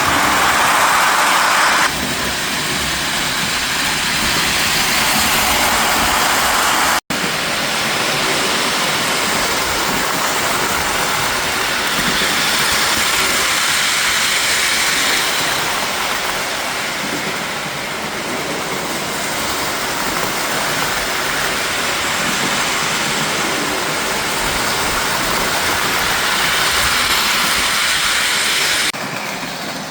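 Lionel O-gauge toy train running on track: a steady rolling rumble and hum of its wheels and motor. A brief dropout about seven seconds in.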